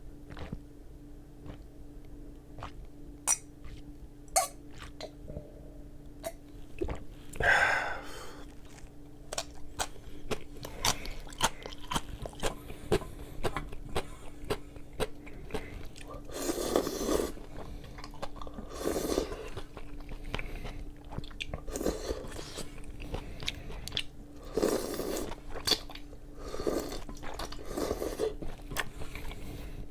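A person eating close to the microphone: chewing with frequent small crunches and clicks, broken every few seconds by a longer, louder noisy sound.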